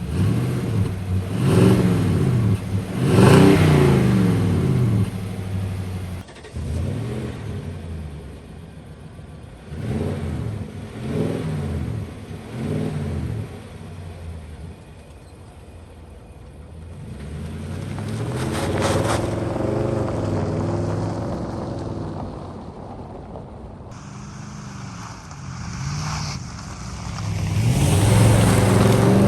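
Nissan Titan pickup's V8 engine revved repeatedly through its stock exhaust, the note rising and falling back to idle about eight times, one rev held longer in the middle.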